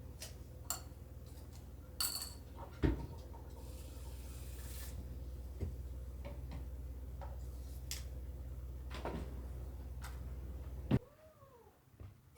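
A domestic cat meows once near the end, a short call that rises and falls in pitch. Before it there is a steady low hum that cuts off suddenly, and a few small clicks and knocks like dishes or a cupboard being handled.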